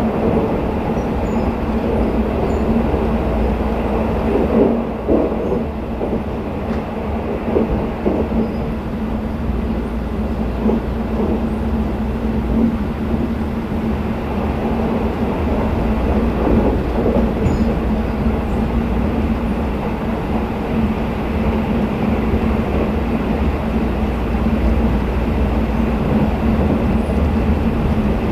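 Running noise heard from inside a Twilight Express sleeper coach moving at speed: a steady rumble of wheels on rail with a constant low hum.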